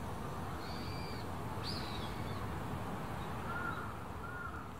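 Outdoor ambience of a steady low rumble with several short bird calls. A couple of high, thin calls come in the first two seconds, and a few lower, arching calls follow near the end.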